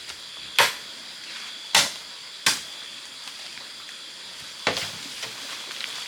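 Bladed tool chopping into bamboo: four sharp, irregularly spaced strikes, the fourth a little softer, over a steady high-pitched hum.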